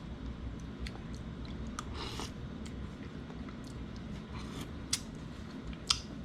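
A person tasting lobster bisque from a small cup: scattered sharp clicks and mouth sounds, the loudest about five and six seconds in, over a steady low rumble.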